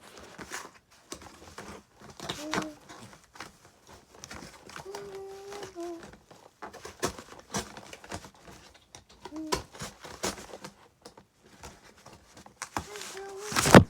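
Cardboard being handled and worked, with scraping, crinkling and tapping clicks and a few short pitched sounds, then a loud clatter just before the end as the phone filming falls over.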